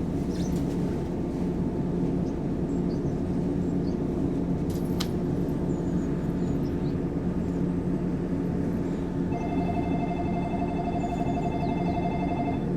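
Steady hum of a standing Shinano Railway 115-series electric train, most likely its onboard auxiliary equipment. About nine seconds in, an electronic station departure bell starts ringing rapidly and rings for about three seconds, a sign that the train is about to leave, before the doors-closing announcement.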